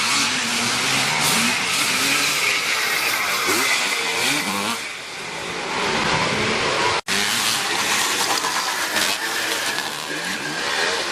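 Vintage twinshock motocross bikes racing, their engines revving and rising and falling in pitch over one another. The sound cuts off abruptly about seven seconds in and picks up again straight away.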